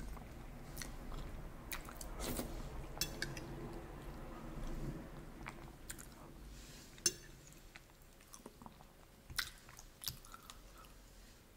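Close-miked chewing of soft ravioli in tomato sauce, with wet mouth sounds. In the second half come a few sharp clicks of a metal fork against the plate.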